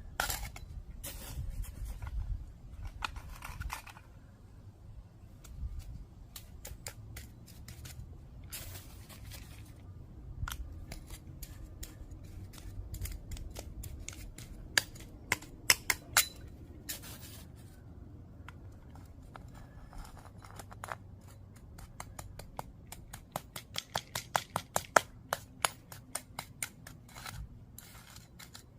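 Cold-patch asphalt being scooped and worked into a driveway patch with a hand tool: irregular gritty scrapes and sharp clicks of stone aggregate against metal and pavement, coming in quick runs about halfway through and again near the end.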